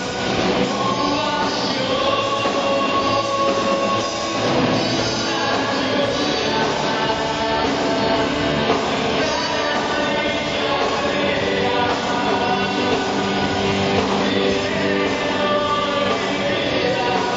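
A rock band playing with singing: electric guitars and drums under a sung melody, continuous throughout.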